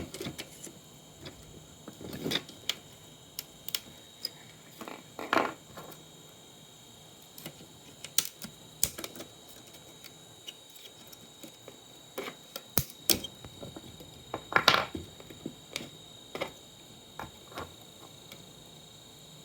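Irregular clicks, taps and knocks of hand tools and plastic and metal parts being handled while an old monitor is taken apart, with a faint steady high tone underneath.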